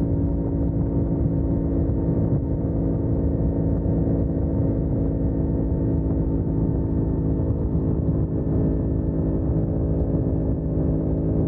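Yamaha R1 crossplane inline-four engine running at a steady high cruising speed, holding an even pitch, with wind rush on the microphone.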